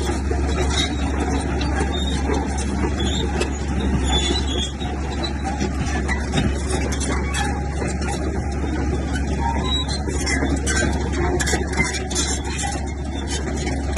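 Heavy earthmoving machinery at work: a steady low diesel drone with rattling and clanking over it, thickening into a run of sharp clatter about ten seconds in.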